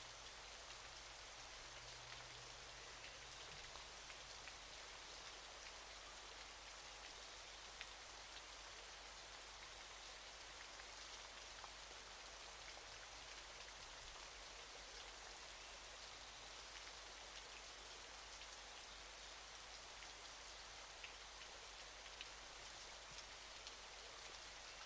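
Steady falling water: a soft, even hiss with faint scattered droplet ticks, unchanging throughout.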